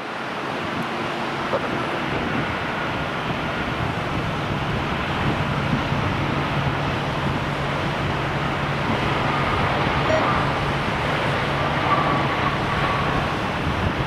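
Jet airliner engine noise, a steady rush with a faint whine, mixed with wind buffeting the microphone.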